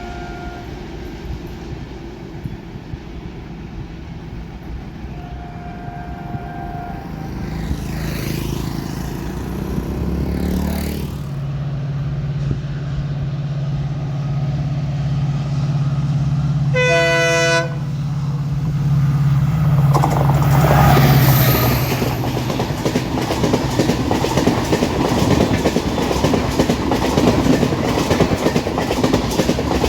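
A train locomotive approaches and passes: faint short horn toots early on, a low steady engine drone building up, and one short horn blast a little past halfway. Then loud rolling wheel noise and clickety-clack of the coaches or wagons going by, to the end.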